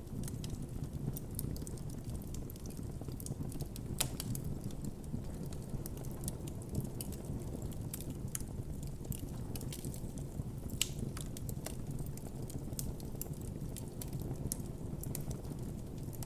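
Campfire crackling and popping: irregular sharp pops, the loudest about four and eleven seconds in, over a steady low rumble.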